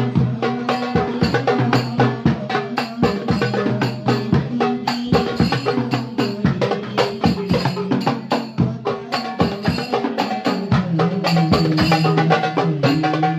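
Several darbuka goblet drums played together in a fast, dense rhythm of sharp strokes, over a backing of steady held low notes.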